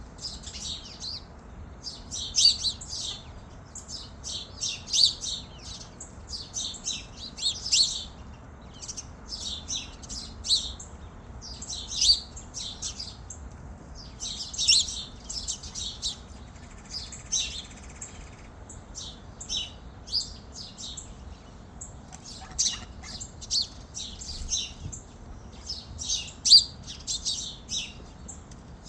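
Small birds chirping in quick clusters of high chirps, one cluster every second or two, with brief gaps between them.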